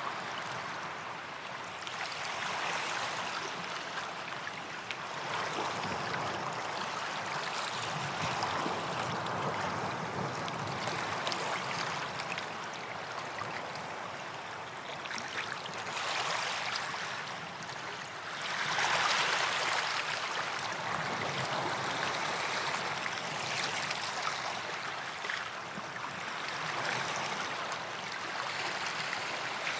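Small waves breaking and washing up a sandy beach, each swell of surf rising and falling every few seconds, with the loudest wash a little after halfway.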